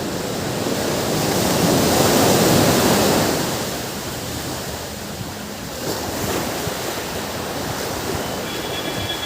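Ocean waves surging onto a beach, with a wave swelling louder about two seconds in and then washing back.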